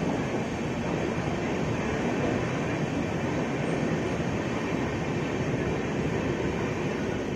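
Express passenger train running at speed through a tunnel, heard from on board: a steady, loud rumble of wheels on rails.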